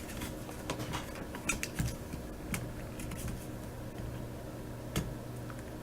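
Scattered light clicks and taps of small objects being handled, the sharpest about five seconds in, over a steady low hum.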